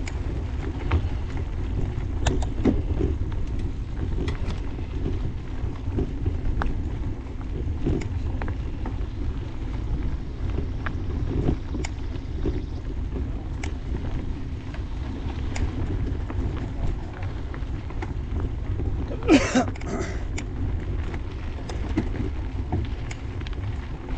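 Wind buffeting the microphone over the rumble of mountain bike tyres rolling on a dirt trail, with scattered clicks and rattles from the bike. A brief louder sound with a pitched edge stands out about 19 seconds in.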